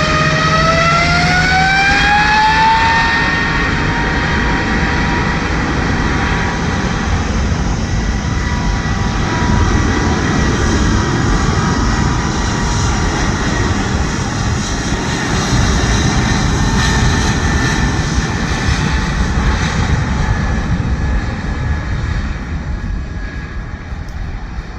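Boeing 777-200ER jet engines spooling up to takeoff thrust. A whine rises in pitch over the first few seconds, then holds steady over a loud rumble that fades near the end as the airliner departs.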